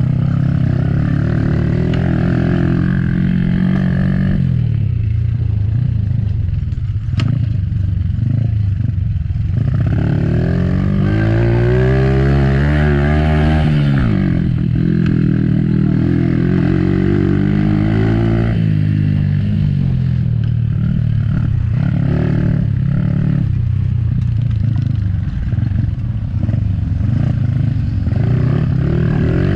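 Motocross dirt bike engines running hard and revving, their pitch repeatedly rising and falling as the bikes accelerate, shift and back off. There is a single sharp click a few seconds in.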